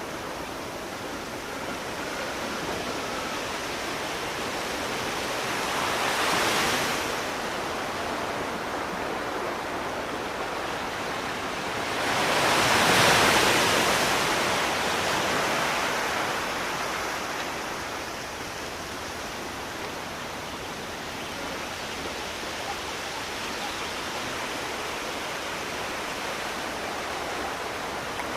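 Sea surf: a steady wash of waves, with two waves breaking louder, a smaller one about six seconds in and a bigger one that swells and fades a few seconds later.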